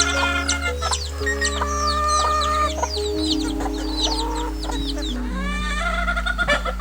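Chickens clucking and small birds chirping over background music of slow, sustained chords that change every couple of seconds.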